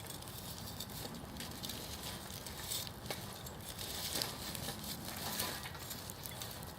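Wood campfire burning, with irregular crackles and pops over a low steady noise.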